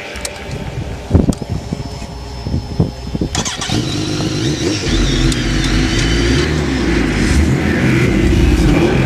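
A few knocks and clatter, then about three and a half seconds in a vehicle engine starts up and runs loudly with a deep low rumble.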